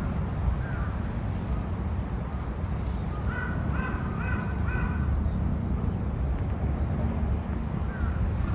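A bird's harsh call repeated four times in quick succession, about two a second, over a steady low rumble.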